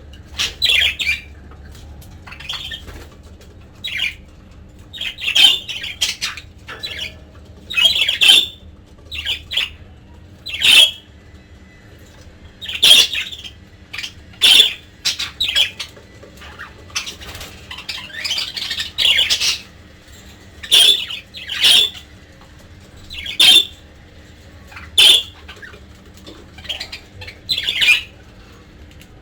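Budgerigars giving short, harsh, high-pitched squawks and chirps, one every second or two in an irregular run, over a faint steady hum.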